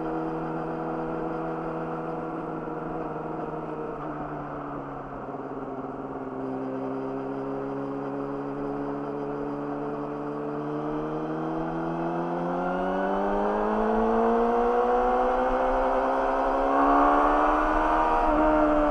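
Yamaha YZF-R6 inline-four with an Akrapovic slip-on exhaust, running at a steady speed and easing off slightly about five seconds in. Over the last several seconds the revs climb steadily as the bike accelerates, with a quick break in the note near the end.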